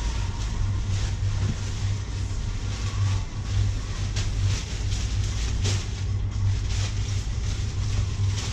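Crinkly synthetic motorcycle cover rustling and crackling in repeated short scrapes as it is pulled and smoothed over the bike, over a steady low hum.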